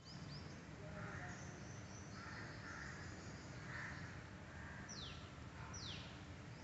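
Outdoor birdsong: crows cawing three times, a few short high chirps, and near the end two quick whistled calls that each sweep sharply downward, about a second apart, over a steady low background rumble.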